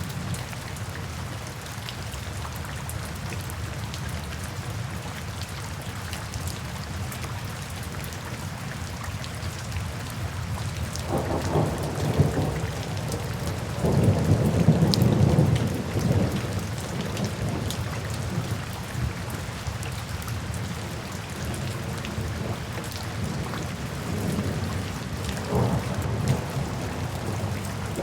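Steady rain falling in a forest, with a low rumble of thunder swelling about halfway through and a fainter rumble near the end.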